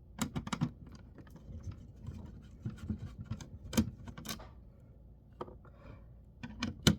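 Scattered clicks, taps and scraping of small plastic and metal parts being handled as an old laptop is taken apart, in three bunches: just after the start, around the middle and near the end.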